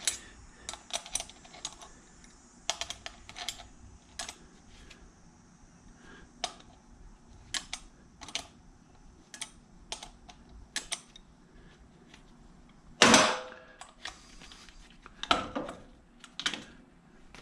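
Irregular small clicks and taps of hand tools and small metal parts being handled while taking scrap apart, with a louder clatter about two thirds of the way through.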